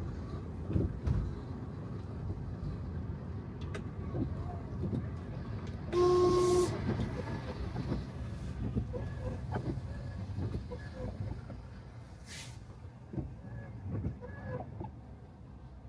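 Tyres of a Tesla Model 3 running on a wet street, a steady low rumble with no engine note, getting quieter toward the end. About six seconds in a vehicle horn sounds briefly, the loudest thing here.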